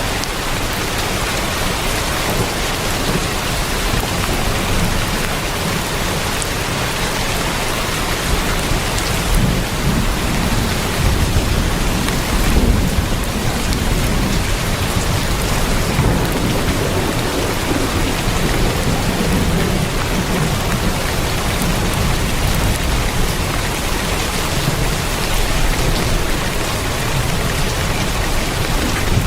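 Heavy rain falling steadily on a tin roof, with a low rumble that swells and fades through the middle.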